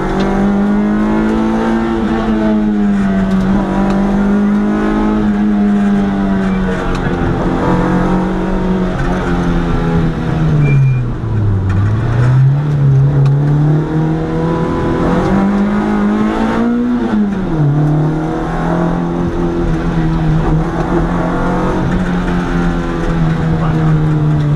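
Historic competition car's engine heard from inside the cockpit, pulling at steady revs, then falling to low revs about eleven seconds in as the car slows for a tight turn before climbing again. About seventeen seconds in the revs drop sharply at a gear change, then hold steady.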